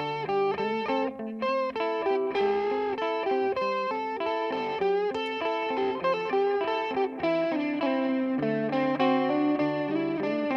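Electric guitar played through a Donner Yellow Fall delay pedal: a continuous run of single notes with a few bent notes, the notes ringing on and overlapping one another.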